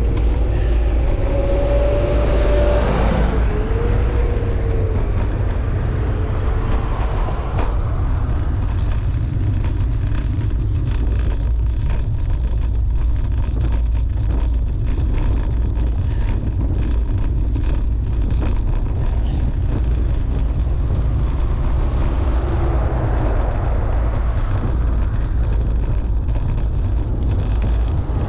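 Steady wind rushing over the microphone of a camera riding on a moving road bicycle, mixed with road and tyre noise. A faint wavering tone shows in the first few seconds.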